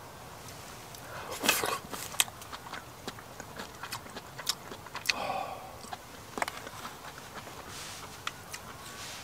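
A person chewing cooked black sea snail meat, with scattered sharp clicks. The loudest bursts come about a second and a half in and again around five seconds.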